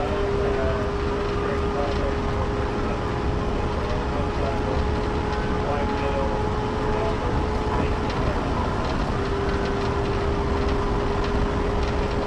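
Police patrol car driving at high speed in a pursuit: a steady, loud rush of engine, tyre and wind noise, with a steady humming tone running through it.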